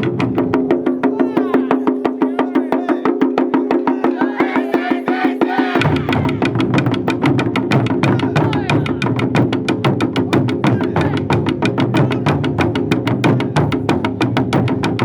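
Japanese taiko drums playing fast, even strokes over music with sustained low tones; the deepest bass drops out about a second in and returns near six seconds.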